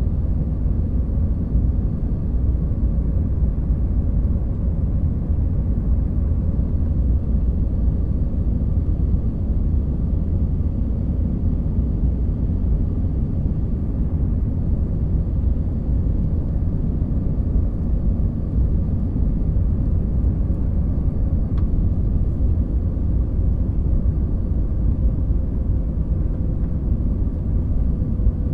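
Steady cabin noise of a jet airliner in flight: a deep, even rumble of engines and rushing air with a faint steady hum over it.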